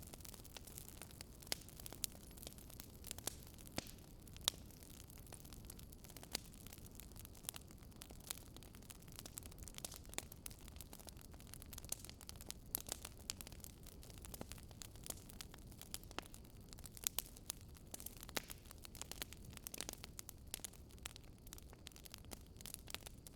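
Wood fire crackling, with irregular sharp pops and snaps over a low hiss and rumble of burning.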